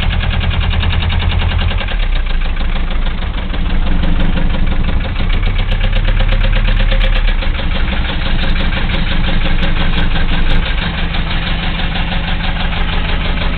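1974 Mercedes diesel engine idling with a horrible rod knock, a rapid, even knocking over the engine's running sound: the sign of a worn connecting-rod bearing.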